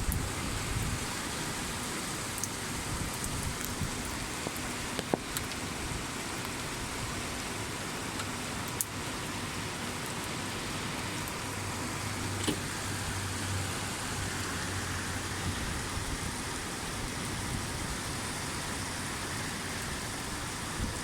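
Steady rain falling, with a few sharp ticks of drops striking close by.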